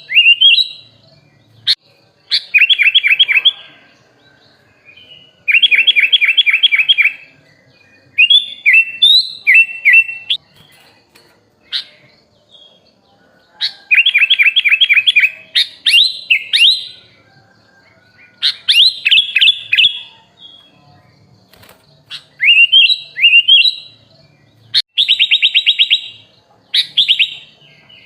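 Sooty-headed bulbul (kutilang) singing loud, chattering phrases: quick runs of repeated notes and sharp upward-sliding whistles, each phrase a second or two long with short pauses between, about ten phrases in all.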